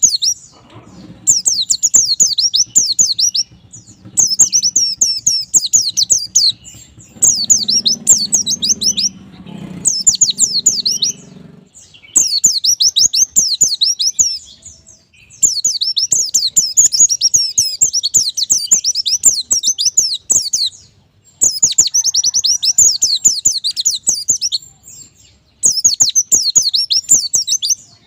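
White-eye (pleci) singing: rapid, high twittering phrases of quick down-sweeping notes, each phrase a second or two long, repeated with short breaks between.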